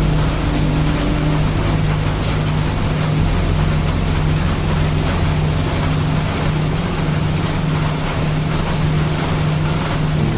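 Heavy rain, a steady dense hiss, layered over a constant deep low rumble of brown noise, with no breaks or claps.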